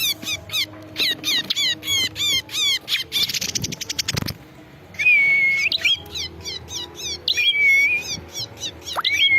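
Male bar-winged prinia (prenjak) song played as a lure call. It is fast runs of sharp falling chip notes, about four or five a second, broken several times by a held whistle note. About three seconds in there is a rapid buzzy rattle, then a brief pause.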